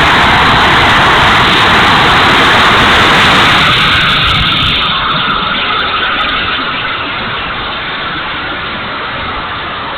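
70 mm electric ducted-fan jet (E-flite F-16) rushing past, a loud steady whoosh that eases off after about four seconds, with wind rumbling on the microphone.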